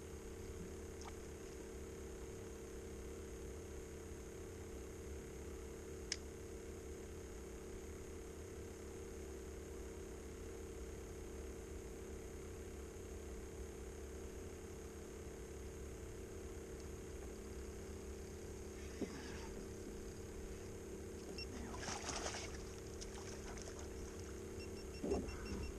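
A steady low hum runs throughout, with a sharp tick about six seconds in and a few brief rustling or splashing noises and faint beeps near the end.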